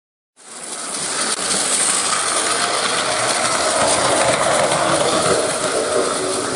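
A train running on its track, a steady rolling and rumbling noise that cuts in suddenly about a third of a second in.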